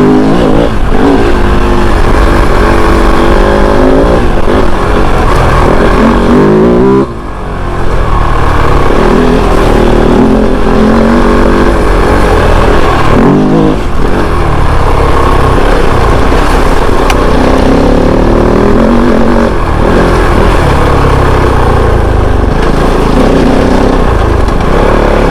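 Kove 450 Rally motorcycle engine under way off-road, its revs rising and falling again and again as the throttle is worked, with a brief throttle-off dip about seven seconds in.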